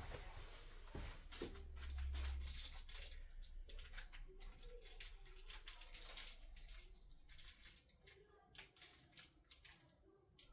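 Faint clicks, taps and rustling of plastic handguard parts and hardware being handled and fitted to a motorcycle handlebar, with a low rumble in the first couple of seconds.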